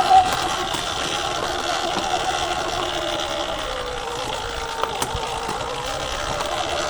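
Sur-Ron Ultra Bee electric dirt bike's motor whining while riding, its pitch wandering with speed: it sinks lower around the middle and climbs again near the end. A brief knock right at the start and a sharp click about five seconds in.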